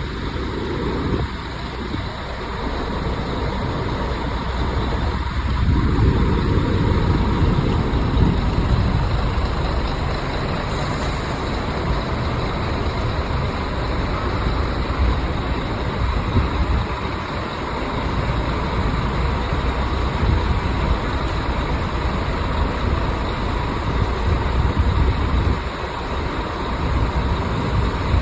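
Scania tour bus running: a steady engine and road rumble that swells about five to eight seconds in.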